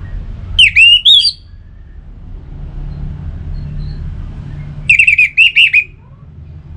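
Orange-headed thrush singing: two short, rapid phrases of loud whistled notes, about a second in and again about five seconds in, over a low steady rumble.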